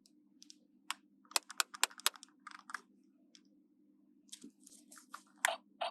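Small hard plastic toy pieces clicking and tapping as they are handled, in quick irregular clusters of sharp clicks, a bunch about a second in and more near the end.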